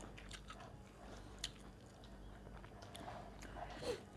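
Faint chewing and mouth sounds of someone eating goat meat close to the microphone, with a few small clicks scattered through.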